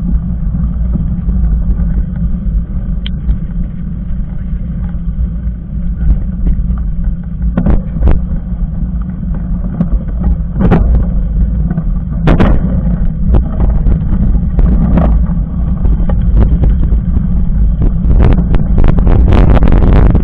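Mountain bike riding over a rough trail: a steady low rumble with scattered knocks and rattles, which come thicker and louder over the last few seconds.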